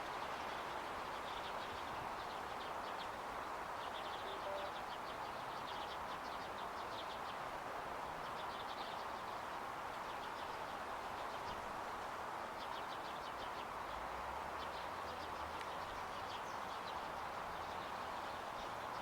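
Small birds chirping and twittering in quick, high calls throughout, over a steady background hiss of outdoor noise.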